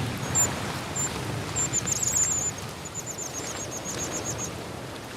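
High, thin chip calls of white-throated dippers: a few single chips, then quick runs of chips, over the steady rush of a swollen river.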